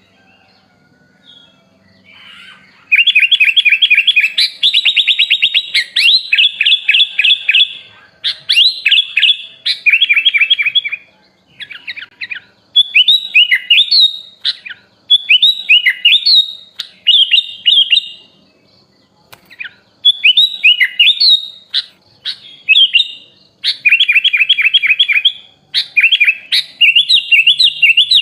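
Sooty-headed bulbul (kutilang) singing a loud, varied song of fast trills and quick repeated whistled phrases. It starts about three seconds in and comes in bursts with short pauses. It is a trained bird's song filled with phrases learned from other species.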